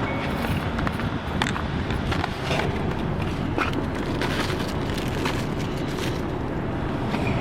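Steady road and engine noise of a moving car, with scattered short clicks.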